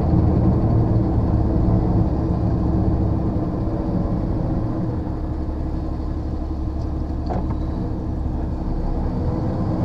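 Lorry's diesel engine running at low speed, a steady low hum heard from inside the cab, easing slightly in the middle; a faint click about seven seconds in.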